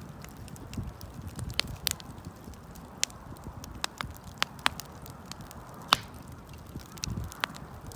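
Wood campfire crackling, with irregular sharp snaps and pops and a few louder cracks, over a low rumble that swells now and then.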